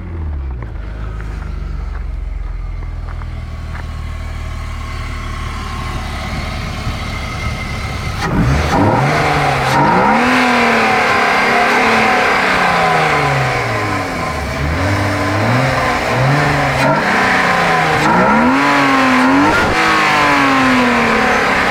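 BMW 320i's M50 2.0-litre inline-six engine running at a steady low speed, then, about eight seconds in, getting louder and revving up and down repeatedly, its pitch climbing and dropping several times.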